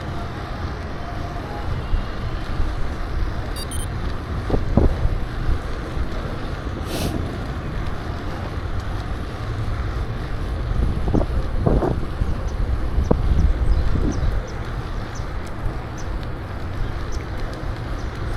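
Wind buffeting the microphone of a camera riding along on a moving bicycle: a steady low rumble, with a few short knocks scattered through it.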